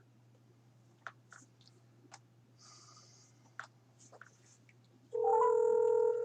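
A few soft clicks from handling a smartphone, then about five seconds in a loud, steady tone from the phone's speaker lasting about a second: the ringing tone of an outgoing call being placed.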